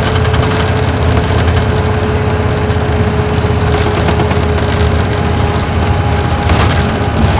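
Isuzu Gala coach's V-type diesel engine and road noise heard from inside the cabin while driving: a steady low rumble with a thin steady whine over it, which drops away about six seconds in as a higher whine takes over, with a short rattle near the end.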